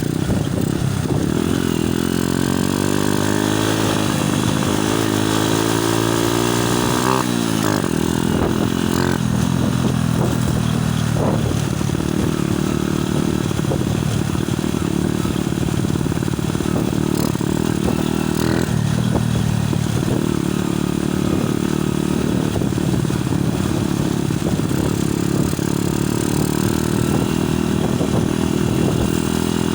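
Motorcycle engine running while riding, its pitch rising and falling over the first several seconds and then holding steady, with loud wind noise on the phone's microphone.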